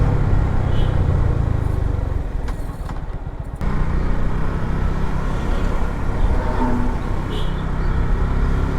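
Motorcycle running along a road, its engine and road noise steady, easing off about two and a half seconds in and picking up again abruptly about a second later.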